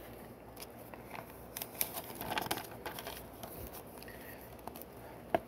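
Small plastic clicks and light rattling of Lego pieces being handled and pressed together, with a rustle about two seconds in and one sharper click near the end.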